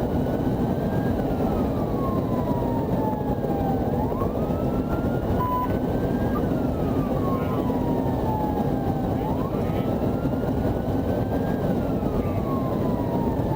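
Police siren in wail mode: a tone that rises quickly and falls slowly, repeating about every five seconds. Underneath runs a steady rumble of engine and road noise from the patrol car at speed.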